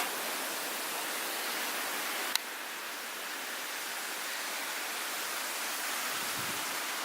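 Steady rushing noise of blizzard wind driving heavy snow, with a single sharp click about two and a half seconds in.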